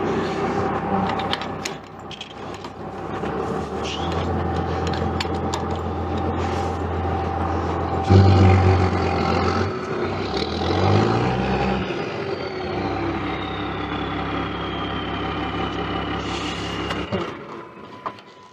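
Pickup truck engine running at low speed as the truck is backed into place, with a louder rev about eight seconds in and a few brief changes in engine pitch, then shut off near the end.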